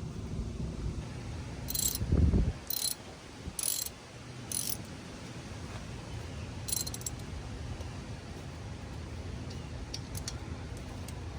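Hand-tool sounds during brake work: a few short metallic ratcheting clicks and clinks between about two and seven seconds in, with a dull thud just after two seconds, then a few faint ticks over a low background hum.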